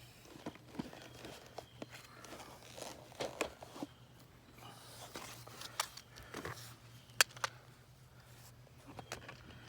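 Scattered sharp clicks and rustling over a steady low hum, with the loudest click about seven seconds in.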